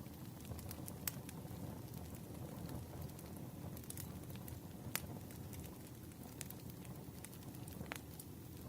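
Campfire burning: a steady low rumble with scattered sharp crackles and pops of the wood, about one or two a second.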